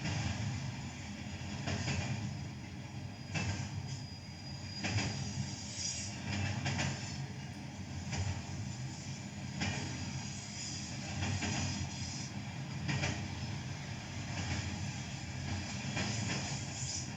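BNSF freight train running on the track: a steady low rumble with sharp clacks recurring every second or two.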